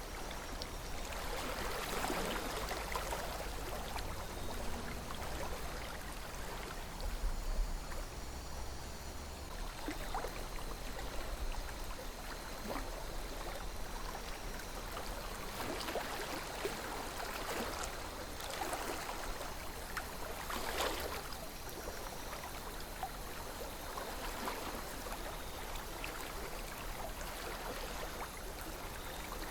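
Calm river flowing, a steady rush of water with gurgles swelling now and then, and a low rumble underneath.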